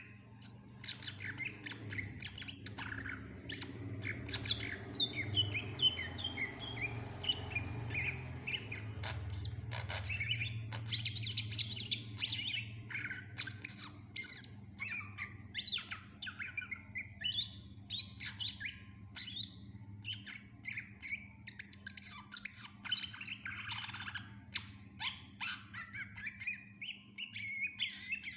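Greater green leafbird (cucak ijo) singing non-stop: a rapid, varied stream of chirps, whistles and short sliding notes, with runs of falling notes and mimicked calls of other birds worked into the song, over a faint low hum.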